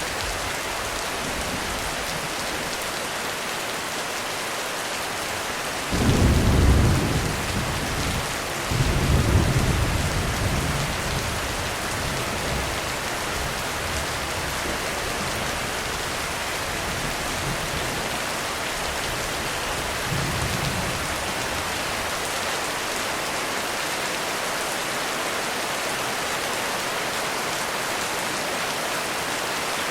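Heavy rain falling steadily through a thunderstorm. A low rumble of thunder breaks in suddenly about six seconds in and is the loudest thing heard. A second rumble follows around nine seconds and rolls off over a few seconds, and a faint one comes near twenty seconds.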